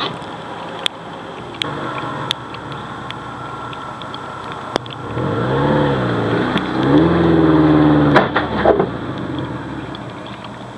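1999 Subaru Forester's flat-four boxer engine revving up and down under load, twice rising and falling in pitch around the middle and held high for a moment before easing back. Scattered sharp knocks and clicks sound throughout, typical of the car working over rocks.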